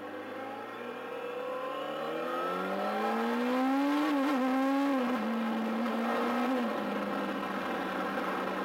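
2009 Kawasaki ZX-6R's 599 cc inline-four engine accelerating, its revs climbing steadily for about four seconds, then levelling off and holding at a steady pitch, easing down a little about two-thirds through. Wind rushes across the helmet microphone throughout.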